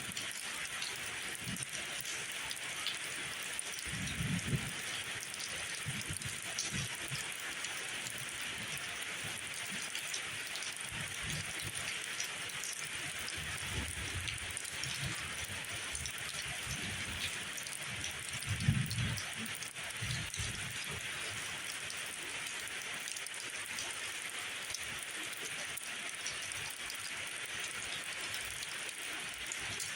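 Steady rainfall hissing evenly, with short low thumps or rumbles about four seconds in and again about nineteen seconds in.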